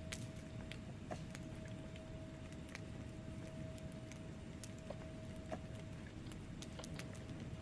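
Wood fire burning in a fireplace: a steady low rumble of flames with irregular sharp crackles and pops from the logs, several a second at times.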